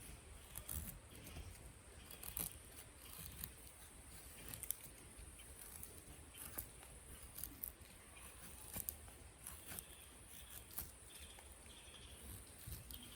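Steady high-pitched insect drone with faint scattered clicks and taps throughout.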